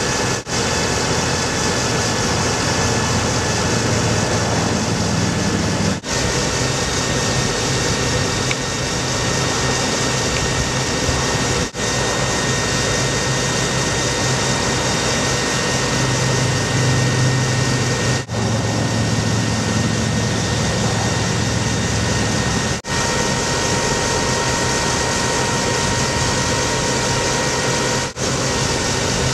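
2008 Ford F750 bucket truck's engine running steadily, broken by brief gaps about every five to six seconds.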